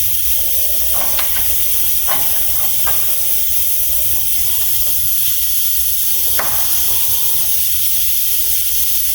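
Steady hiss over a low rumble, with a few light metallic clicks of hand tools being handled, about four in all.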